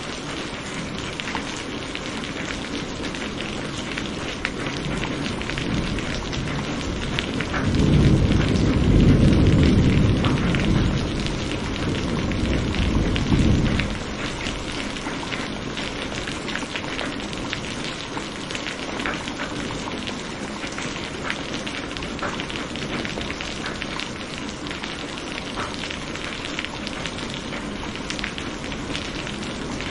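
Steady rain hissing, with a long low rumble of thunder rolling in about eight seconds in and dying away some six seconds later.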